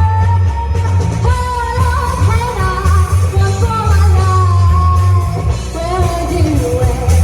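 Live band performing a pop-rock song: a lead singer holds long, sliding notes over a strong, steady bass.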